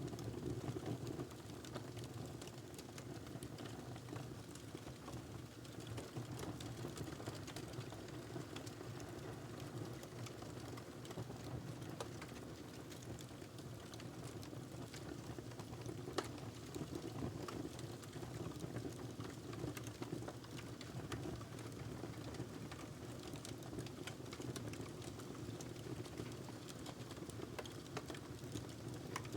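Wood fire burning a log in a fireplace: frequent small crackles and pops over a steady low rush of flame, with one sharper pop about halfway through.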